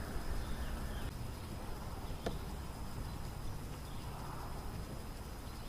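Quiet outdoor ambience: a faint low rumble with a single sharp click about two seconds in.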